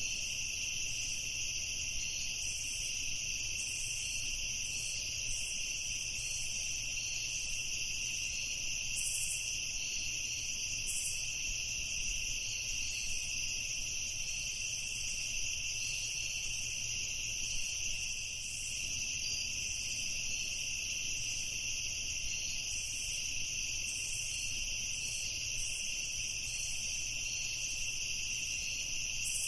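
Steady night chorus of crickets and other insects, a dense continuous high-pitched trill in several overlapping layers.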